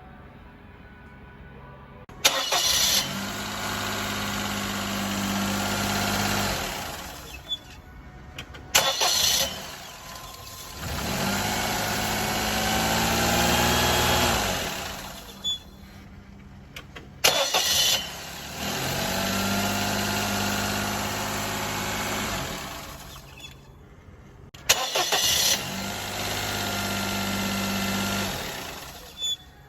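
Daihatsu car engine started four times, each start followed by a few seconds of running before it stops, with a thin high whine over the engine note. The engine's pitch rises and falls once, in the second run. The whine is the early symptom of a failing water pump.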